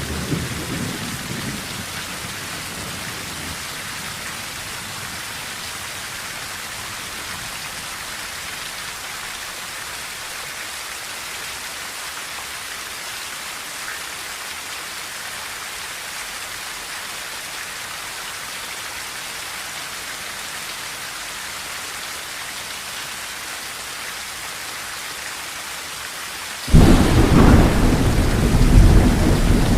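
Steady rain drumming on a tin roof, with thunder. A rumble dies away over the first few seconds, then a sudden loud clap of thunder breaks in near the end and rolls on.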